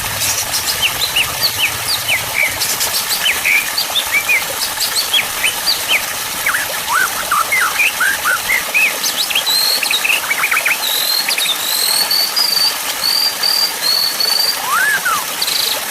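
Songbirds chirping and whistling, many short quick notes overlapping, over a steady hiss. Past the middle, one bird gives a run of short whistles repeated about twice a second.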